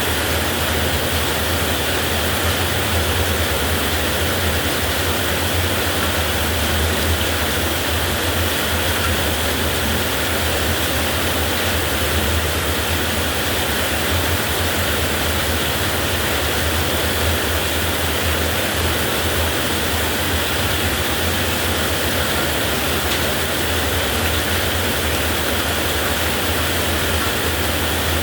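Heavy rain falling steadily, a constant even hiss with a steady low rumble underneath and no thunder claps.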